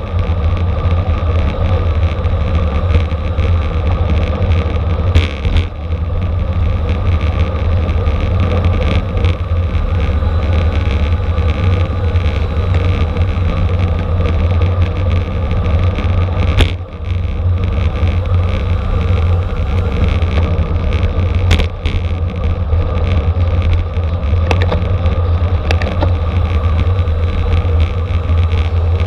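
Steady rush of wind over the microphone of a camera riding on a racing bicycle at speed, with a few short knocks.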